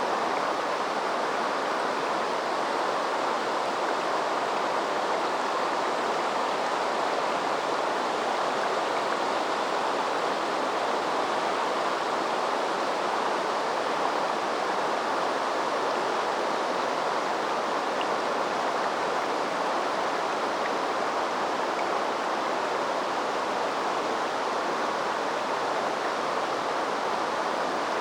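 A river running over shallows and stones: a steady, even rush of water with no breaks.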